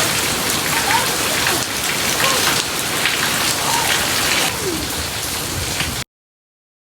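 Heavy rain pouring in a gusty thunderstorm, a dense steady hiss with scattered sharper spatters. It cuts off abruptly about six seconds in.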